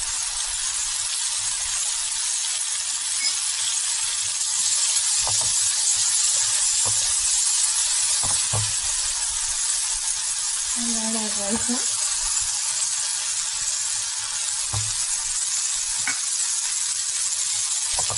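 Chopped vegetables sizzling steadily in hot oil in a pan as they are stir-fried, with occasional soft knocks and scrapes of a silicone spatula against the pan. A brief murmur of a voice about eleven seconds in.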